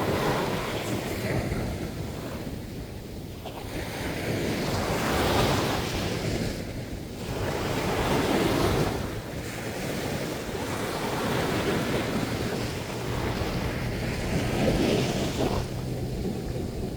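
Sea surf breaking on a sandy swimming beach, the wash swelling and easing every few seconds as each wave comes in. Wind rumbles on the microphone underneath.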